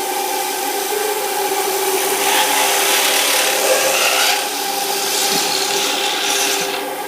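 Automatic multi-spindle drilling machine running, its spindle motors holding a steady hum while the drill bits cut into a curtain-wall profile with a rasping hiss that is loudest from about two to four seconds in.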